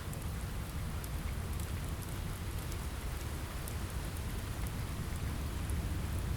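Steady rain with a low rumble underneath and scattered faint sharp ticks over the top.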